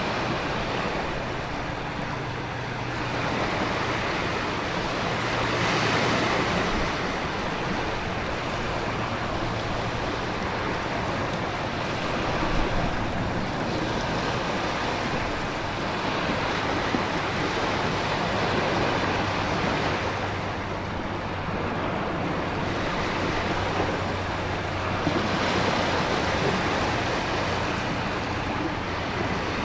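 Storm ambience: ocean waves surging and breaking in slow swells over a steady hiss of heavy rain and wind.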